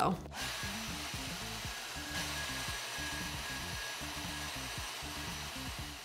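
Budget 2000-watt Dyson-lookalike hair dryer blowing: a steady airy rush, with a faint thin whine added from about two seconds in. The owner finds its small rear fan gives weak airflow for its wattage. Low background music plays underneath.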